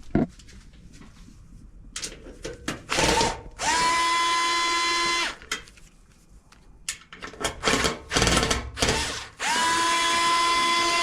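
Bosch cordless screwdriver unscrewing screws at the back of a washing machine: its motor runs twice, each time for about a second and a half, the pitch rising as it spins up and then holding steady. Knocks and clatter come between the runs.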